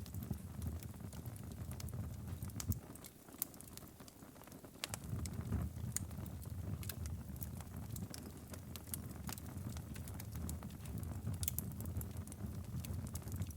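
Wood fire in a fireplace crackling, with many sharp pops over a low steady rumble of the flames; the rumble drops away for about two seconds near the middle, then returns.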